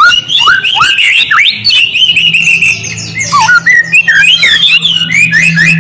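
A songbird's rapid whistled song, a quick run of rising and falling notes and chatter, played as a lure to provoke white-rumped shamas into singing. A low steady hum comes in underneath about two seconds in.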